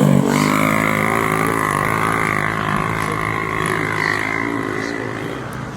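Vintage motocross bike engine running at a steady, held throttle, its pitch wavering slightly and its level slowly falling away.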